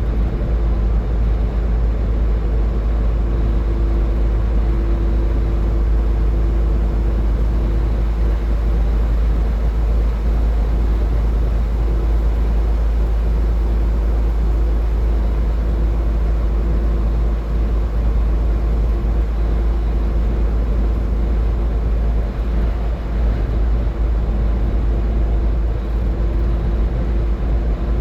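Car driving at highway speed: a steady road and engine noise with a heavy low rumble and a faint steady hum.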